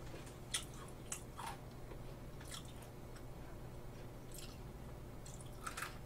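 Faint chewing and crunching of a white-chocolate cookie-coated Pepero biscuit stick, a few short crisp crunches scattered through the chewing.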